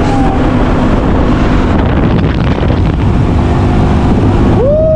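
Wind buffeting the microphone in a loud, steady rush over a low rumble. Just before the end a short tone rises and falls.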